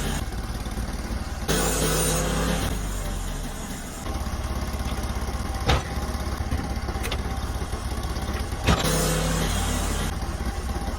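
Sawmill engine running steadily while milling a log, with two sharp knocks partway through.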